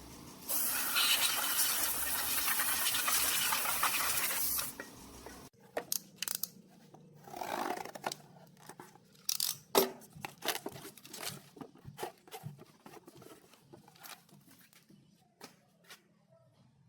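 A harsh, steady noise for about four seconds that stops abruptly, then scattered light clicks, knocks and short scrapes of hand work on metal parts.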